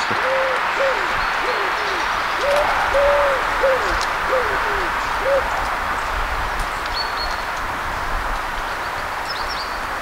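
A bird calling in a run of about nine short, low notes, each rising and falling, over the first five seconds or so, then stopping. Faint high chirps follow later, over a steady hiss.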